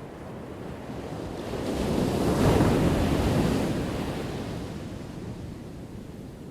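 Ocean wave breaking on the shore: the surf rises over about two seconds to a crash, then washes out and fades.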